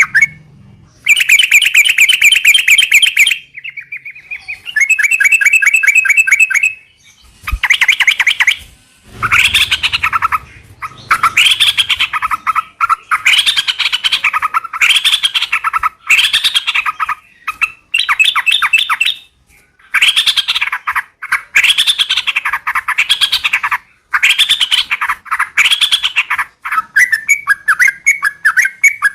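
Yellow-vented bulbul (trucukan) calling in a long series of loud bursts of rapid chattering notes, each about one to three seconds long with short breaks between them. Toward the end these give way to quicker, sliding chirps.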